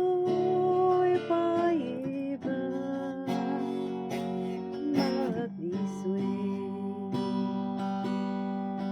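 Acoustic guitar strumming chords in a folk song's closing bars; a long held note sounds over it at the start and ends about two seconds in.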